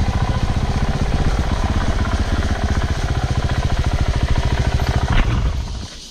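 Off-road motorcycle engine running close by with a rapid, steady firing pulse, dropping away sharply near the end.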